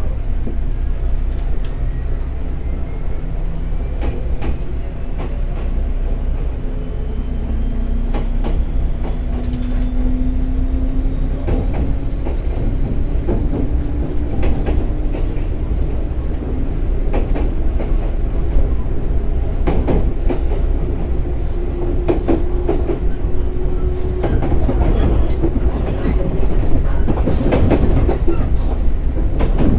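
Running sound of a JR 211 series 6000-subseries electric multiple unit. A motor and gear whine rises steadily in pitch as the train gathers speed over a low rumble. Wheel clacks over rail joints come quicker and louder toward the end.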